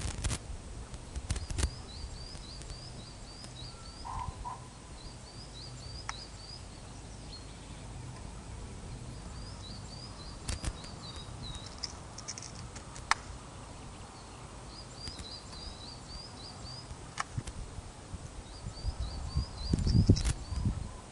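A bird singing short phrases of quick, high chirped notes, repeated every few seconds, over a steady low wind rumble on the microphone. Scattered sharp clicks are heard, and a louder rumbling gust comes near the end.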